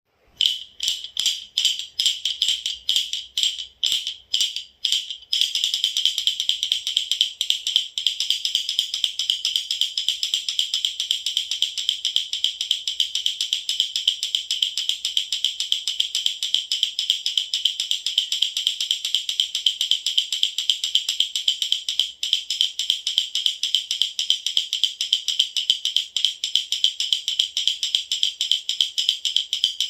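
Baby rattle (jhunjhuna) shaken with a bright jingle: separate shakes, about two or three a second, for the first five seconds or so, then fast, continuous shaking.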